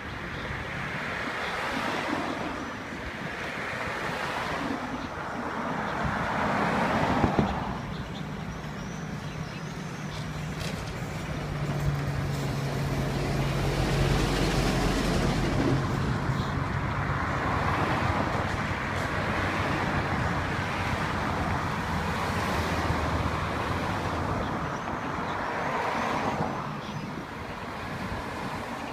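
Road traffic: cars and trucks pass one after another, each rising and fading as it goes by. Through the middle there is a heavier vehicle's low, steady engine hum.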